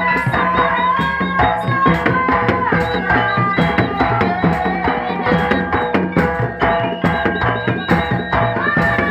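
Live Javanese jaranan music: hand drums playing a busy steady rhythm under a held, sliding melody line.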